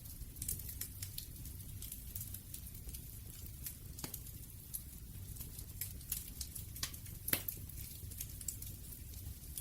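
Wood fire crackling: scattered sharp pops and snaps over a low steady rumble, with a louder pop about seven seconds in.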